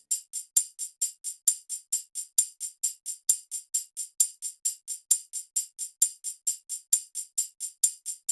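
Dangdut 'icis' (tambourine/ecek) part playing on its own: even, crisp jingling strokes about four or five a second, every fourth one a little stronger, with no drums or bass under it.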